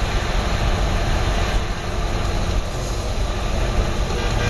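A car doing a burnout: its tyres spinning and screeching against the pavement under a hard-running engine, a steady loud rush of noise.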